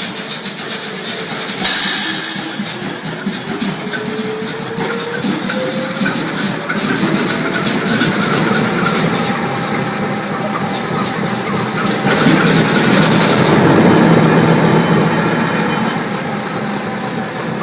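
Large Duvant 9VOS diesel engine running with a rapid clatter. About two seconds in there is a sudden loud burst of hiss, and the engine's pitch then rises for several seconds as it speeds up. It settles into steady running, with another spell of hiss later on.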